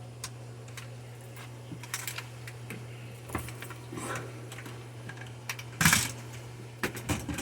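Irregular light clicks and knocks over a steady low hum, with one louder, short rattling knock about six seconds in and a few quick clicks near the end.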